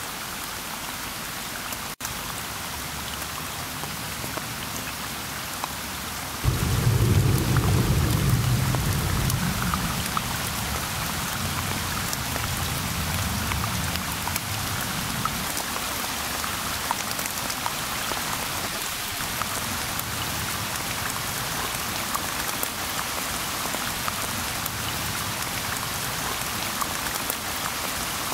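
Steady rain falling on a river's surface. About six seconds in, a low rumble of thunder starts suddenly, then dies away over the next several seconds.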